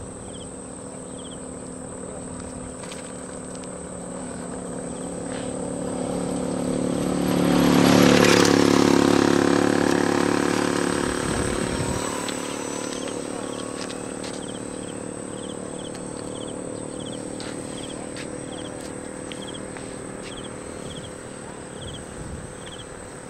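RC Cessna 182 model airplane's engine and propeller droning steadily as it flies past: the sound swells to its loudest about eight seconds in, then slowly fades as the plane moves away. Insects chirp at regular intervals in the background.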